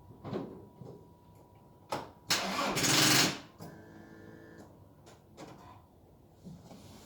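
Old diesel car's starter motor given a short crank on a weak, run-down battery: a click about two seconds in, then about a second of cranking that stops without the engine catching.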